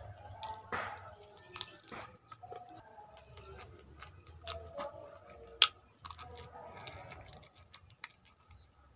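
Close-up mouth sounds of a person chewing and biting on adobo-braised chicken feet: wet chewing with many short clicks, one sharp click about five and a half seconds in.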